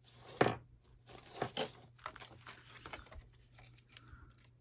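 Paper craft scraps and doilies being handled and shuffled: scattered rustles and light taps, the loudest about half a second in, over a faint steady low hum.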